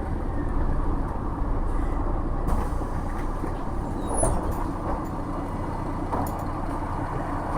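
Cabin noise inside a MAZ-107.466 city bus: a steady low rumble from its Mercedes-Benz OM 906 LA turbocharged six-cylinder diesel and the road, with a few short knocks about four and six seconds in.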